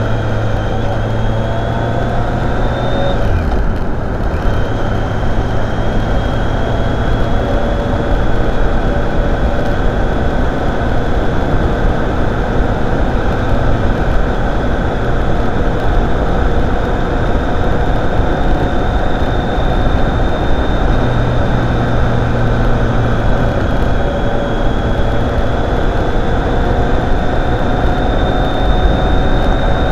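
Motorcycle engine running under way with heavy wind rush. The engine note drops about three seconds in, then holds and slowly glides up and down.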